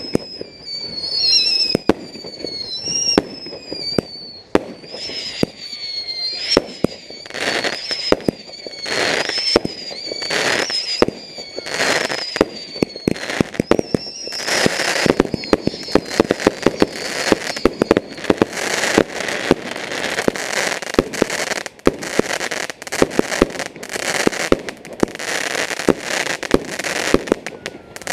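Fireworks going off in quick succession: whistling fireworks, each a high whistle falling in pitch, about once a second over many sharp bangs. From about seven seconds in there are dense crackling bursts and pops.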